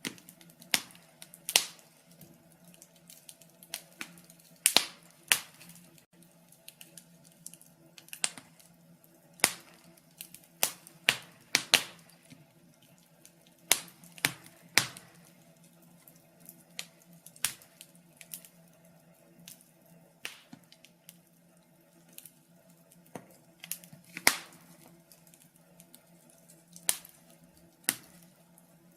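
Wood fire in a fireplace crackling, with irregular sharp pops and snaps from the burning logs, some louder than others, over a faint steady hum.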